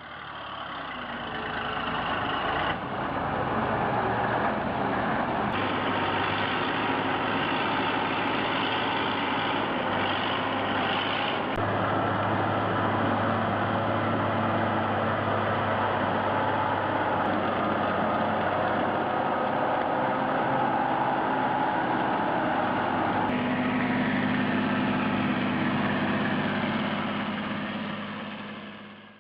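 Heavy truck engines running, with the sound changing abruptly several times as one short clip cuts to the next.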